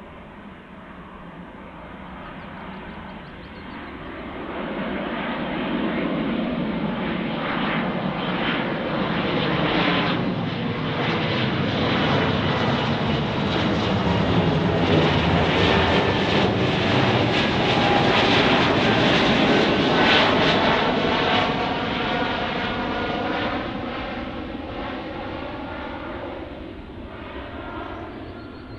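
Embraer E195-E2 jet airliner taking off, its twin Pratt & Whitney PW1900G geared turbofans at takeoff power as it passes close by. The sound builds over several seconds, is loudest about halfway through with a sweeping whine, then fades away.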